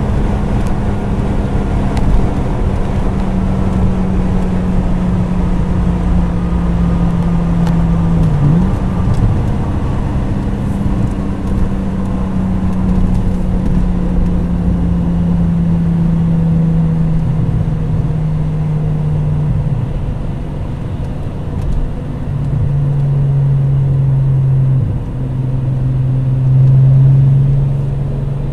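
Volkswagen VR6 narrow-angle six-cylinder engine running hard at high motorway speed, heard from inside the cabin over heavy road and wind noise. Its steady drone sinks slowly in pitch as the car eases off, with a step down about three-quarters of the way through.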